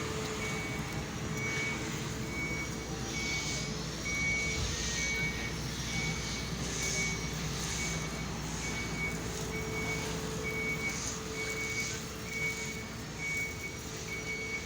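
Vehicle reversing alarm beeping at an even pace, about three beeps every two seconds, over a steady engine hum.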